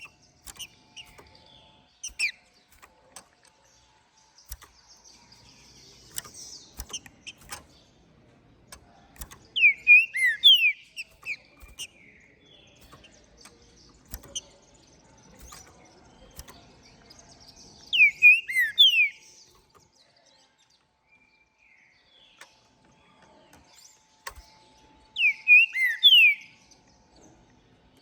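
Green-winged saltator (trinca-ferro) singing: three loud phrases of quick swooping whistled notes, about eight seconds apart, with soft chirps and faint clicks between them.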